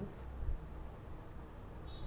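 Pause in the narration: low steady electrical hum and room tone, with one soft knock about half a second in and a faint high-pitched tone starting near the end.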